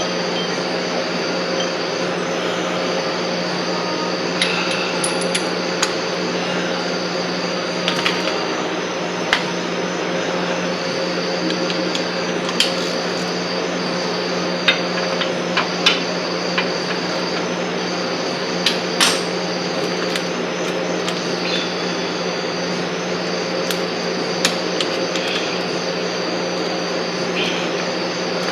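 Scattered metallic clicks and knocks of hand tools on a car's motor mount bolts, over a steady background hum.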